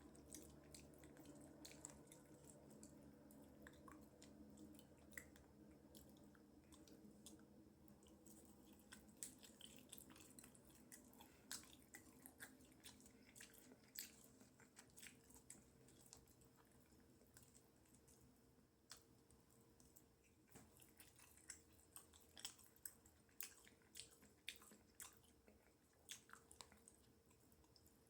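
Faint close-up chewing and eating: a person working through soft, sauce-covered animal-style fries, with many small wet mouth clicks scattered throughout.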